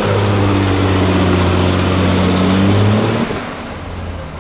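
Pulling semi truck's diesel engine running hard at a steady pitch, with a high whistle above it. About three seconds in the engine drops off and the whistle winds down in pitch.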